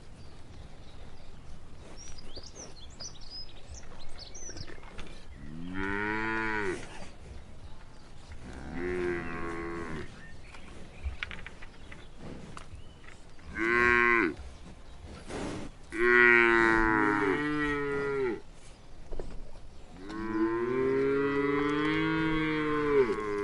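Cows mooing: about five long moos a few seconds apart, the loudest about two thirds of the way in, the last one held for around three seconds.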